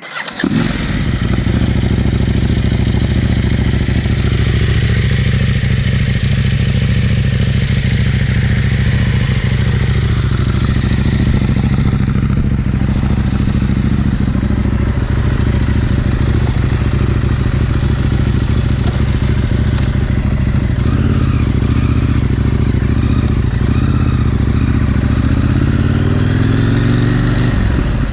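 KTM 890 R Duke's parallel-twin engine through an Austin Racing GP1R exhaust, recorded on the bike while riding. It runs steadily, then rises in pitch under acceleration over the last several seconds and drops back near the end.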